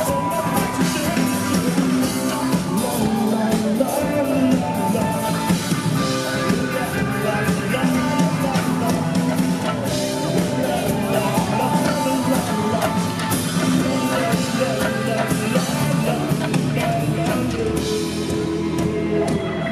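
A rock band playing a song live: full band with drums and guitar, steady and loud.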